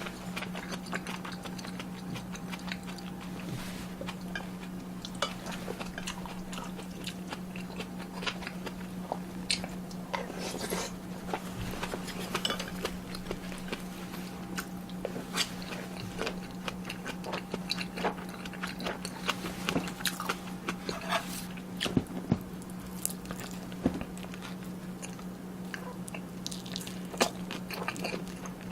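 Close-miked eating of tuna kimchi stew: chewing and crunchy bites with many short clicks of spoon and chopsticks, over a steady low hum.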